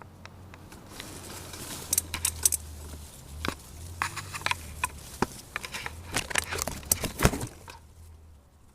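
Irregular sharp clicks, taps and rattles over a steady low rumble: handling noise from the camera and tripod being set up and adjusted, busiest in the middle and dying away near the end.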